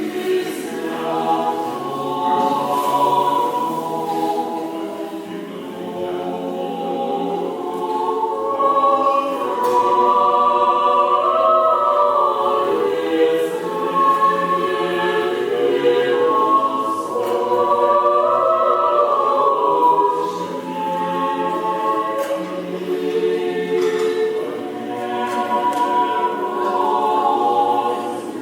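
Choir singing unaccompanied Orthodox church chant in slow, sustained chords.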